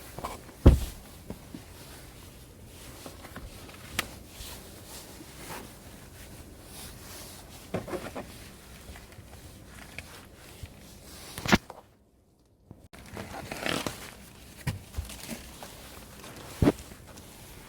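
Scattered knocks, clicks and rustling of objects being handled, with one sharp knock near the start and others later on; the sound drops out completely for about a second partway through.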